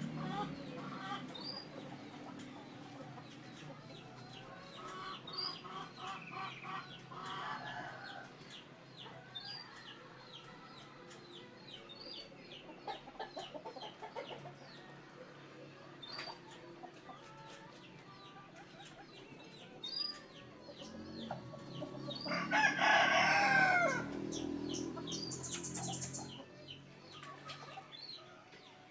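Chickens clucking, with a rooster crowing once about 22 seconds in, the loudest sound. Short high chirps repeat throughout.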